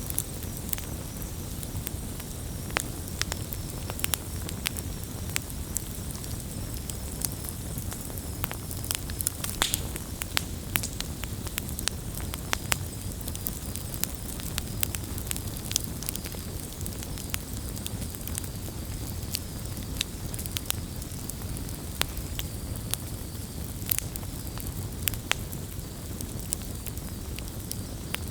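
Wood fire burning: a steady low rumble under frequent, irregular sharp crackles and pops.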